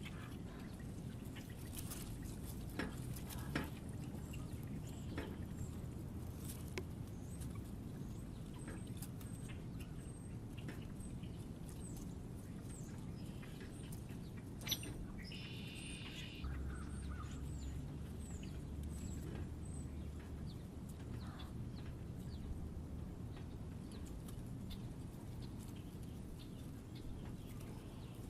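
Small birds chirping at a feeder: a string of faint high chirps through the middle and one louder, fuller call about fifteen seconds in. Scattered short clicks and a steady low rumble run underneath.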